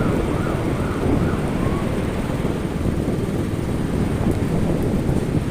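Thunderstorm wind buffeting the microphone over heavy rain, a dense low rumble throughout. A faint warbling tone repeats about twice a second and dies away in the first two seconds.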